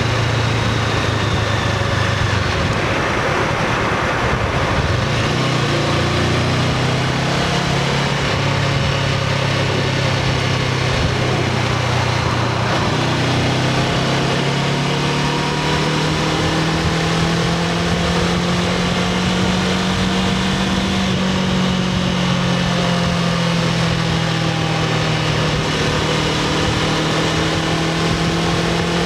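Honda CBR500R's parallel-twin engine with its stock exhaust, running continuously. The engine note holds fairly steady, its pitch drifting slowly up and down, under an even hiss.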